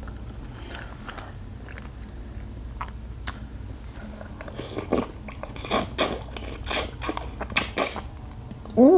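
A person chewing and biting seafood-boil crab close to the microphone: scattered small clicks and crackles, growing louder and busier from about halfway through. A short hummed "mm" comes at the very end.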